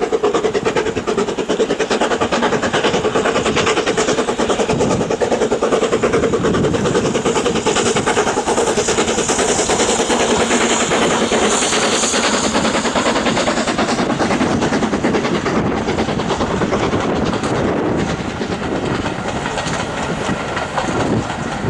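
Steam locomotive running past close with its train: a loud, steady rush with a fast, even stream of beats. It eases off over the last few seconds.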